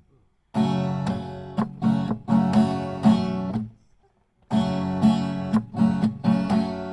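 Acoustic guitar being strummed in chords, with no singing. The strumming stops dead twice, briefly at the start and for about a second in the middle.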